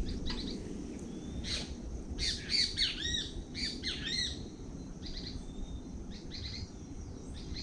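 Wild birds chirping outdoors, with a burst of quick, repeated arched chirps in the middle and scattered calls after it, over a steady low background rumble.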